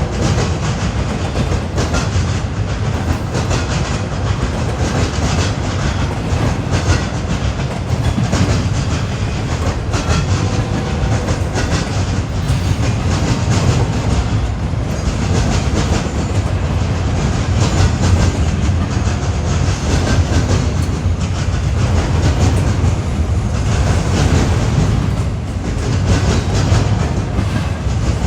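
A train's cars rolling past, with a steady rumble and wheels clacking over the rail joints.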